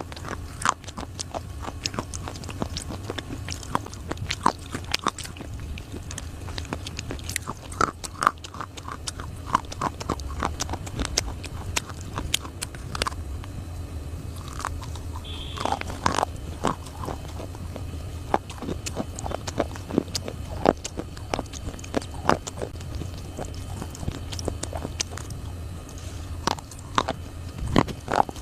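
A person biting and chewing dry, crunchy clay close to the microphone: a run of sharp, irregular crunches and crackles, over a steady low hum.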